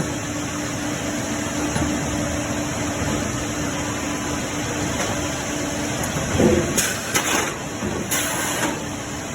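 Salem 42-inch sawmill carriage machinery running with a steady hum. A short whine comes about six and a half seconds in, followed by several brief hissing bursts near the end.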